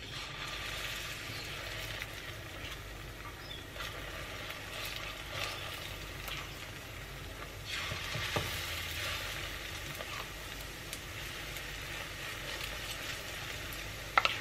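Spoonfuls of sardine fish-cake mixture frying in hot olive oil in a stainless steel pan: a steady sizzling hiss that starts as the first spoonful hits the oil. A few sharp clicks stand out, around four and eight seconds in.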